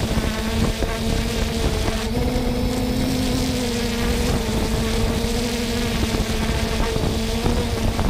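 3DR Solo quadcopter's motors and propellers buzzing in flight: a steady hum that rises slightly in pitch about two seconds in and settles back a second or so later.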